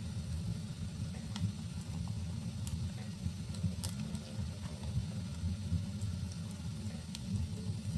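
Wood fire burning in a fireplace: a steady low rumble of the flames with a handful of sharp, scattered crackles and pops from the burning wood.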